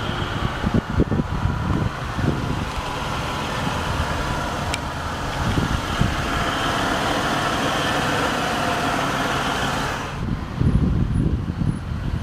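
Car engine running steadily, with wind gusting on the microphone; about ten seconds in, the steady higher hum drops away and the gusting grows louder.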